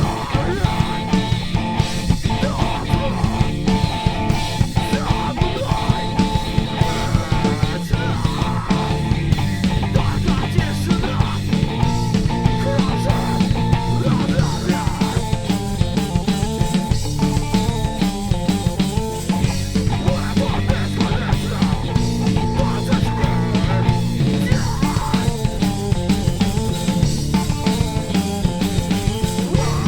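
Live rock band playing: guitars over bass and a drum kit keeping a steady, busy beat.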